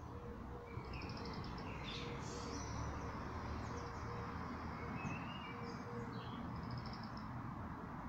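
Songbirds calling: a short, fast trill that comes twice, about a second in and again near the end, mixed with scattered high chirps and quick sweeps, over a steady low background rumble.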